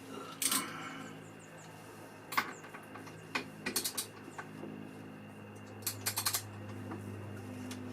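Steel sockets and hand tools clinking as a socket is picked out and fitted, with scattered sharp metal clicks and a quick run of clicks about six seconds in, over a faint steady low hum.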